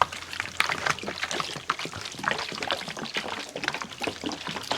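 Water being thrown and poured onto the freshly sawn face of a black walnut log, splashing and trickling in irregular spatters.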